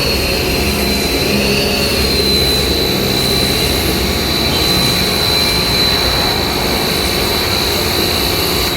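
AVA P25 high-pressure washer (110 bar) spraying: a steady loud hiss of the water jet over the machine's high, steady whine. It cuts off sharply near the end as the spray stops.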